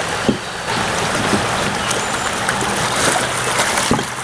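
Fast-flowing river water rushing steadily around a kayak, with a couple of short knocks.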